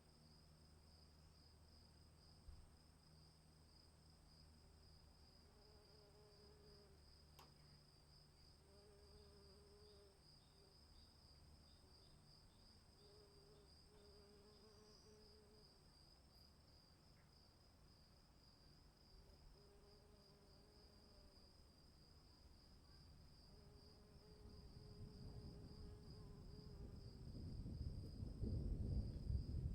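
Crickets chirping faintly in a steady fast-pulsing trill, with faint repeated low calls. In the last few seconds a low rumbling noise swells up and becomes the loudest sound.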